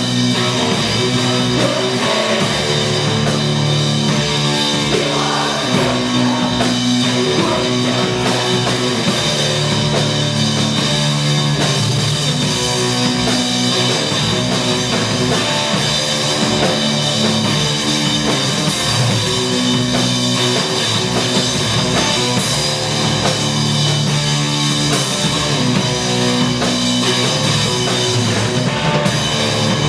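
Live rock band playing loudly, with electric guitar and a drum kit keeping a steady beat.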